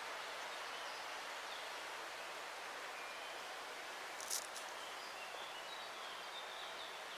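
Steady hiss of rain and wind in the open, with a brief rustle about four seconds in.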